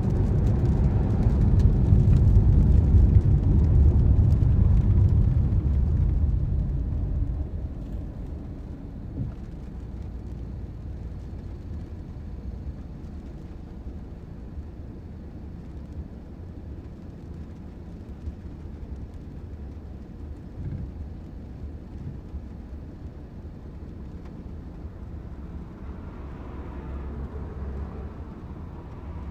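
Car on the move: low road and engine rumble, loud for the first six or seven seconds, then dropping to a quiet steady hum. It swells a little again near the end.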